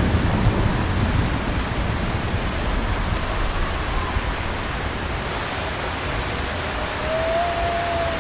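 Steady heavy rain, with the tail of a rolling thunderclap dying away in the first second. Near the end a faint whistling tone rises briefly over the rain.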